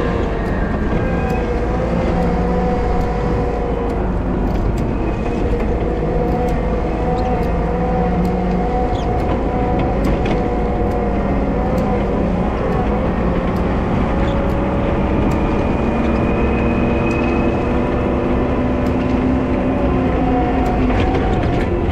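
Volvo wheel loader's diesel engine running steadily while plowing snow, its pitch wavering slightly, with scattered faint ticks over it.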